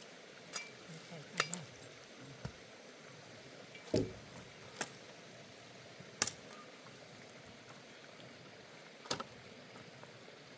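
Several sharp knocks at uneven intervals, the loudest about four seconds in, over faint steady background hiss.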